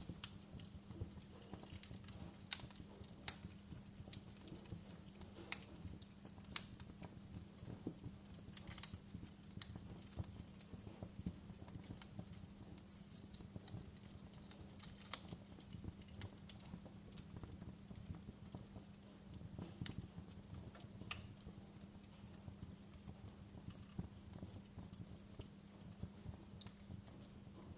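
Wood fire in a fireplace crackling, with irregular sharp pops, a few much louder than the rest, over a steady low hum.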